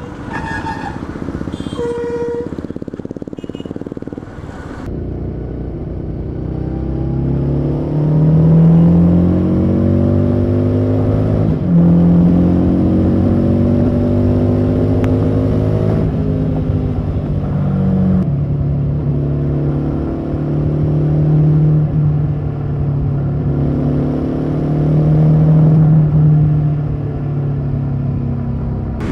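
Harley-Davidson Street 750's V-twin engine accelerating through the gears, its pitch climbing and then dropping back at each shift. A few vehicle horns sound in the first few seconds.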